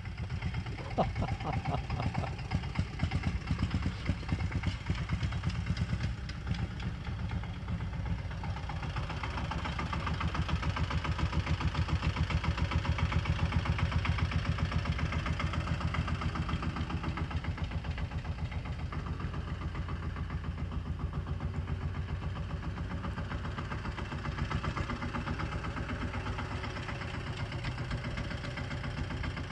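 Tractor engine running with a steady, fast firing beat. It gets louder from about ten seconds in, then eases back after about fifteen seconds.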